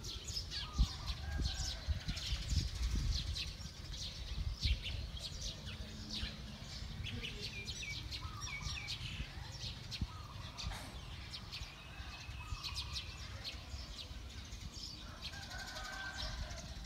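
Small birds chirping and twittering, many short high calls overlapping throughout, over a low rumble.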